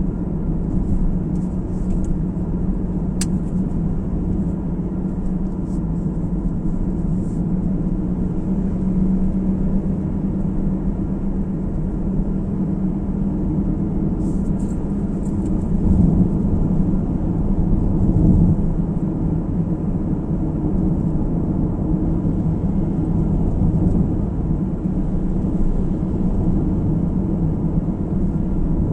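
Car driving along a road, heard from inside the cabin: a steady low rumble of tyres and engine. There is a single sharp click about three seconds in.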